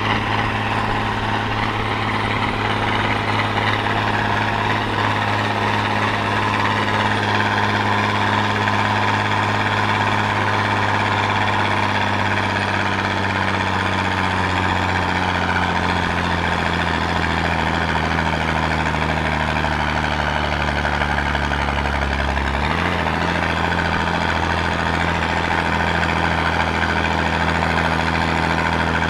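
Eicher Wotan 1's six-cylinder 80 PS air-cooled diesel engine running hard under heavy load, towing a low-loader with two tractors uphill. Its pitch sinks slowly as it lugs, then steps up suddenly about three quarters of the way in.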